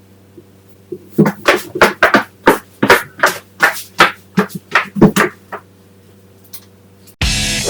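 High heels clicking on a hard floor in quick, even steps, about four clicks a second for some four seconds, then one lone click after a pause. Music comes in near the end.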